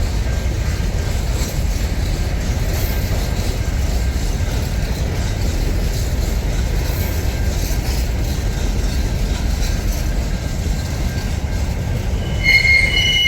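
Long freight train rolling past at low speed, a steady low rumble of wagons on the rails. Near the end a high-pitched wheel squeal sets in.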